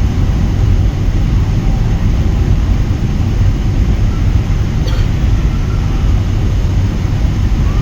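Airliner cabin noise: the steady, deep rumble of jet engines and airflow heard from inside the cabin, with a single brief click about five seconds in.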